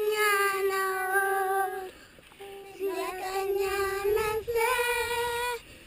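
A high voice singing long held notes, with a short break about two seconds in.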